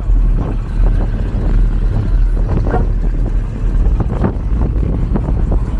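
Low steady rumble of a car engine running.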